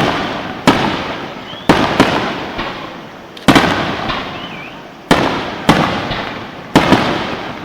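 Aerial fireworks shells bursting overhead: about six sharp bangs at uneven spacing of one to two seconds, each trailing off in a long rumbling echo.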